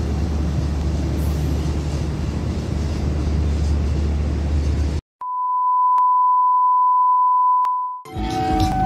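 Steady low rumble of the departing Taksaka passenger train rolling away. About five seconds in it cuts off abruptly and a steady high beep tone sounds for about three seconds, then several tones start together near the end.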